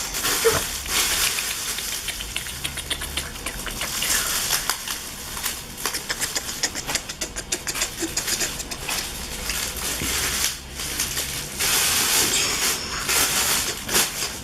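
Rattling and clicking of small hard toy parts being handled and moved about, many short clicks and knocks over a steady hiss.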